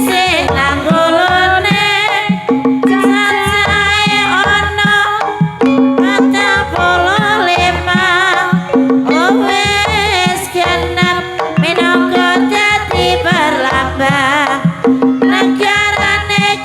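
Javanese Banyumasan gamelan music for a kuda kepang dance: a voice sings a wavering, ornamented melody over hand-drum strokes, with a low note held again and again every second or two.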